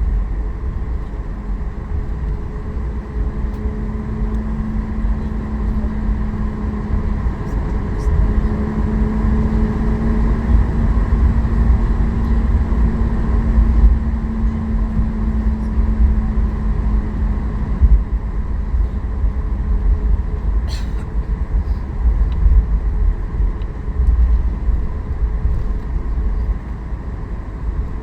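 Cabin sound of a Boeing 737 MAX 8 taxiing and lining up on the runway: a steady low rumble from its CFM LEAP-1B engines at idle thrust, with a steady hum tone through the middle. A short click about two-thirds through.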